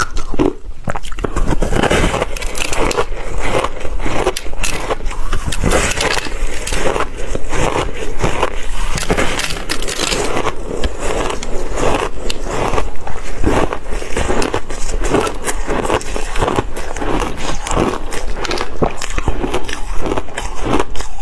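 Ice being bitten and chewed close to the microphone: continuous dense crunching and crackling of ice breaking between the teeth.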